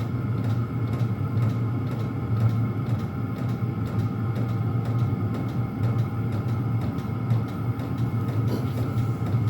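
Several Chinese diesel air heaters running together on low: a steady rumbling hum from their combustion fans and burners, with faint ticks.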